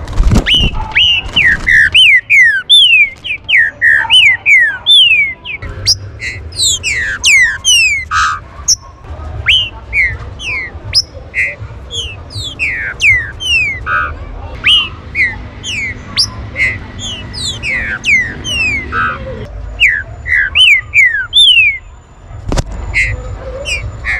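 Green-winged saltators calling excitedly: a dense, overlapping stream of short, sharp whistled notes that slide downward.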